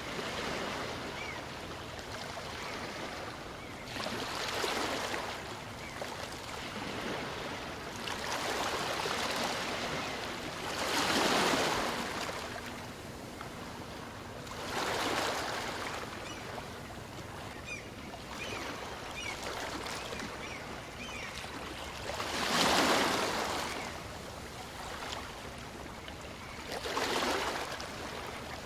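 Small waves on a calm sea breaking on a beach and washing back, a continuous hiss of surf that swells with each wave, about six times.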